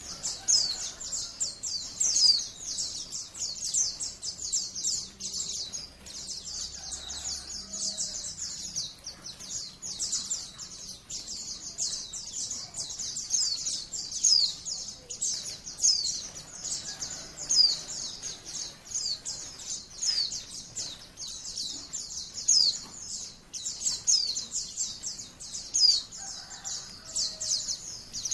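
White-eye (pleci, Zosterops) singing a continuous, rapid, high-pitched twittering song with no breaks, sharper louder notes standing out every second or so: the long 'ngalas' style of song used as a tutor recording for caged white-eyes.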